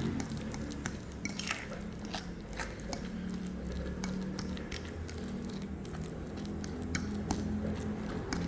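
Utensil clinking and knocking against a mixing bowl several times as a soft dough is worked, over faint background music.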